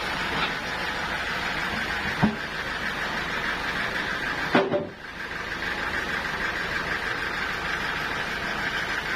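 Portable sawmill running steadily, with a short knock a little over two seconds in and another around four and a half seconds in, after which the sound briefly dips.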